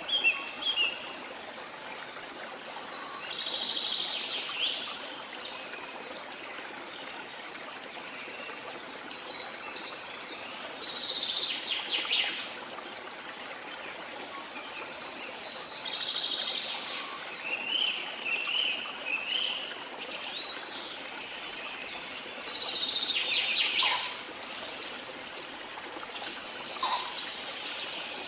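Steady rush of a waterfall's flowing water, with birds singing short phrases every few seconds over it.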